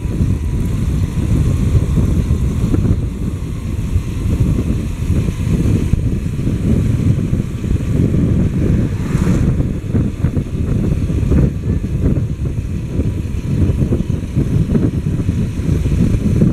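Motorcycle on the move, its engine running under a heavy, fluctuating wind rumble on the microphone.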